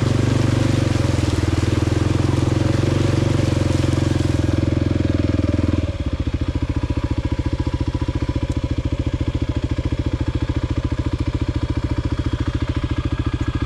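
Kawasaki KLX 300's single-cylinder four-stroke engine running at steady throttle. About six seconds in it drops suddenly to an even, pulsing idle.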